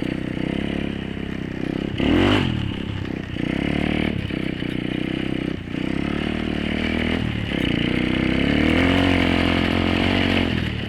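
Apollo 125cc dirt bike's single-cylinder four-stroke engine running under load as it is ridden, the throttle opened and closed repeatedly. A sharp rev comes about two seconds in, then several short drops in engine speed, and a longer climb and fall in pitch near the end.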